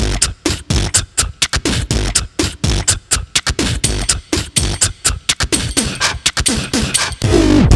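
Beatboxing: a fast run of sharp mouth-made clicks and kick-like thumps mixed with short sliding vocal sounds. It starts abruptly, and near the end a heavy, steady bass comes in.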